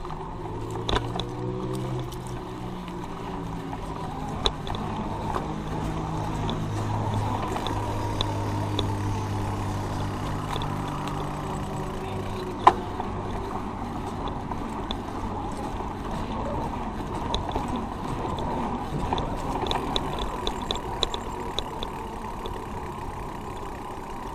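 A motor vehicle's engine running steadily over a haze of road and wind noise, with a single sharp click about halfway through.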